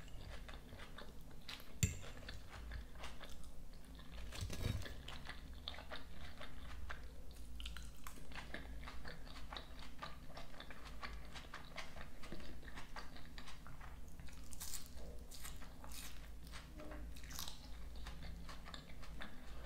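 Close-miked chewing of a crunchy salad of iceberg lettuce and cucumber: a steady run of short crunches and mouth clicks.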